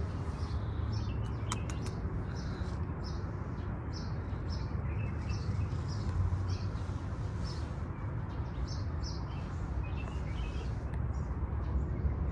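Small birds chirping, short high calls repeating two or three times a second, over a steady low rumble.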